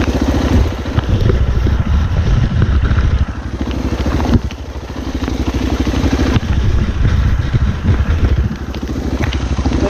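Dirt bike engine running under way, its throttle opening and easing off. The engine is quieter for a few seconds in the middle and again near the end.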